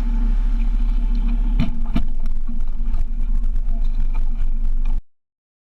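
Outboard motor running steadily on a small boat under way, with wind and water rushing on the microphone. A couple of sharp knocks come about one and a half to two seconds in. The sound cuts off abruptly about five seconds in.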